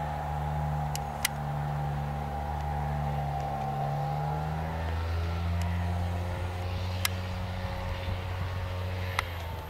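ICE 3 high-speed electric train passing and running away, a steady rumble with a whine whose pitch sinks slightly. A few sharp clicks come through it.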